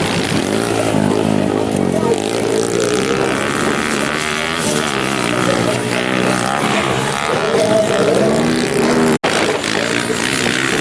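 Motocross bike engines of the 150 cc class revving up and down as the bikes race, several engines overlapping. The sound cuts out for an instant about nine seconds in.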